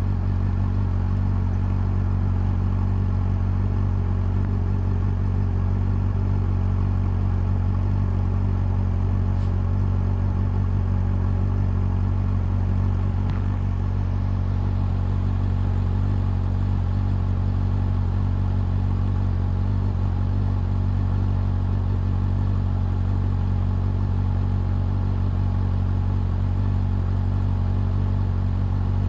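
Honda CB400 Super Four's inline-four engine and exhaust running at a steady, unchanging pitch with no revving.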